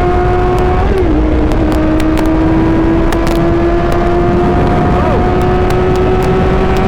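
Sport motorcycle's inline-four engine held at high revs under way. It dips briefly about a second in, as at an upshift, then pulls slowly higher, over heavy wind rush on the microphone.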